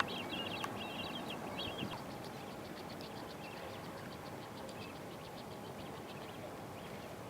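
Small birds chirping, a quick run of short high chirps that is busiest in the first couple of seconds and then thins out, over a faint steady hiss.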